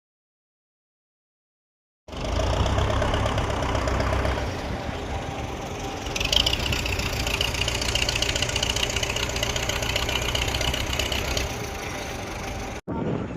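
Dead silence for about two seconds, then a tractor engine running steadily with a deep rumble; a higher, rougher noise joins in the middle, and the sound cuts off abruptly near the end.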